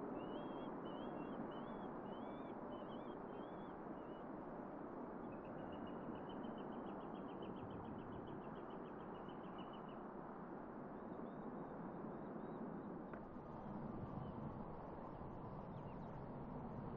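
A small bird singing: short repeated chirping phrases for the first few seconds, then a fast trill of rapid notes lasting several seconds. Under it runs a faint, steady background rumble and hiss.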